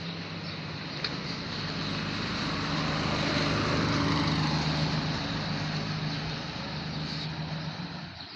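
A road vehicle going by on a wet street: engine hum and tyre hiss swell to a peak about halfway through, then fade.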